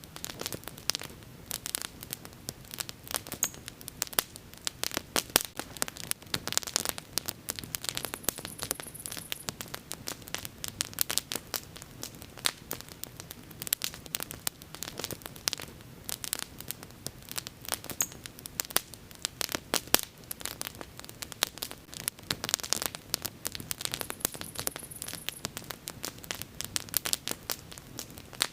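Bonfire of burning wood crackling: a dense, irregular run of pops and snaps over a low hiss.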